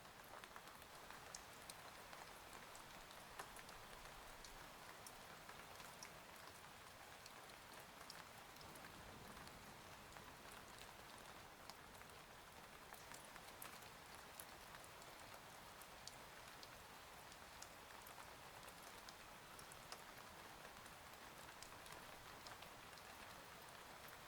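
Faint, steady rain, a constant patter with many scattered sharp drop ticks, as of heavy rain on a cabin window.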